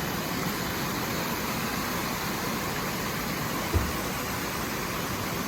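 Steady outdoor background noise with no clear single source, and one short low bump about two-thirds of the way in.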